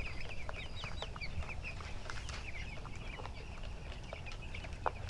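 A flock of 13-day-old broiler chicks peeping continuously, many short high falling cheeps overlapping, with a low steady rumble beneath and a single sharp click near the end.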